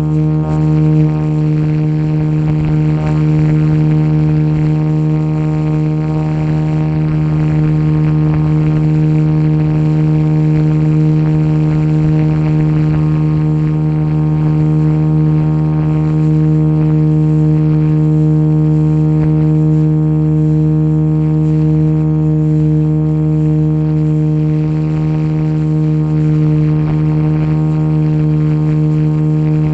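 Motion RC Jet Ranger radio-controlled scale helicopter running at steady power, a loud even drone-like whine that holds one pitch throughout.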